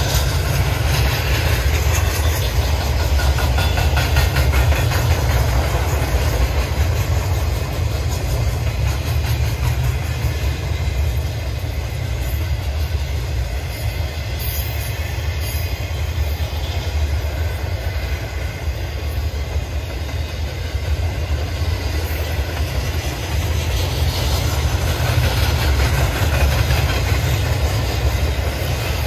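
Freight train cars rolling past: a steady low rumble with the continuous rattle of the cars on the rails.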